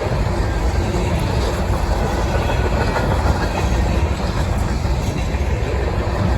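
Freight train cars rolling past, a steady loud rumble of steel wheels on rail with some clickety-clack.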